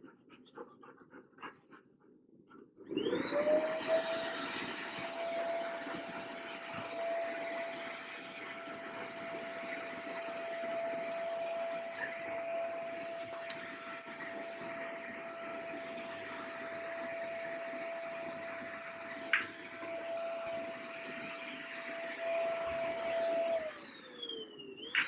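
Household vacuum cleaner switched on about three seconds in: its motor spins up with a rising whine, then runs steadily with a constant pitch and airflow hiss. Near the end it is switched off and the whine falls away as the motor winds down.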